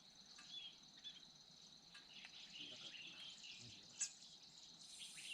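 Faint steady insect chirring, typical of crickets, with scattered short bird chirps and a single sharp click about four seconds in.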